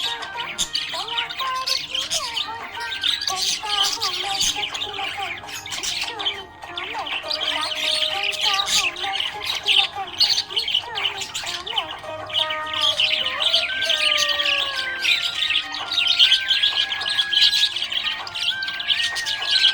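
Budgerigars chirping and chattering continuously in a fast, busy warble, over background music with sustained melody notes.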